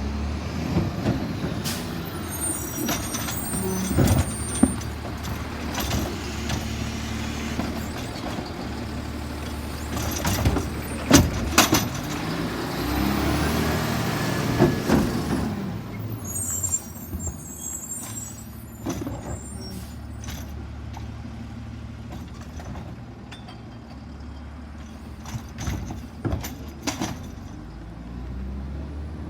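Autocar Xpeditor automated side-loader garbage truck running, its engine humming steadily under a series of sharp knocks and bangs, with the engine rising and falling for a few seconds about midway. Two short bursts of high squealing, typical of air brakes, come near the start and a little past the middle.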